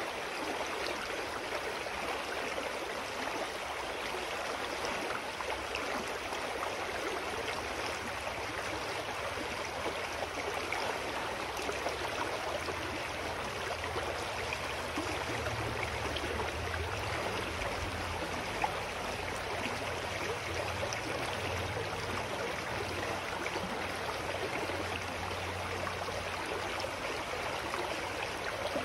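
Clear forest stream flowing steadily, an even rush of water. A faint low rumble rises under it around the middle and fades again near the end.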